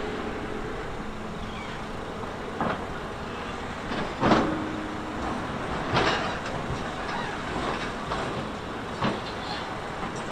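Heavy earthmoving machinery working over rock: a steady noisy rumble broken by several loud clanks or knocks at irregular intervals, the loudest a little over four seconds in.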